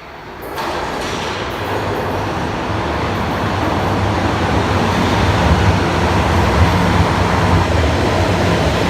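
Bombardier Toronto Rocket subway train running through the station, a loud steady rush of wheels and motors with a deep hum underneath. It jumps in loudness about half a second in and keeps growing louder.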